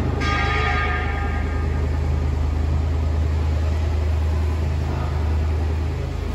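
A steady low engine hum from a vehicle running in the workshop. About a quarter-second in, a metallic ring sounds and fades over about a second.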